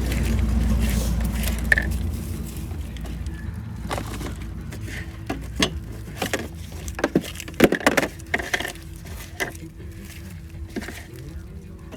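A low rumble at first, then a run of irregular sharp knocks and clatters as containers and other objects are handled and moved about, over a faint steady hum.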